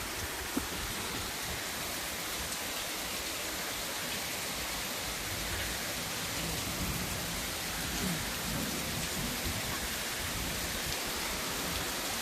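Heavy rain pouring down in a steady hiss, with one small click about half a second in.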